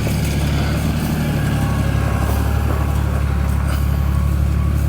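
An engine running steadily at idle: a deep, even drone.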